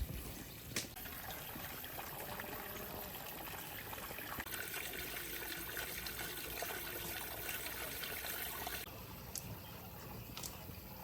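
Water pouring steadily, stopping abruptly about nine seconds in, with a couple of light knocks near the start.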